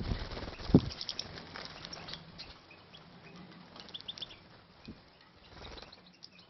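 Captive finches fluttering their wings and giving short, high chirps. A flutter thumps shortly before a second in, then the scattered chirps thin out and fade.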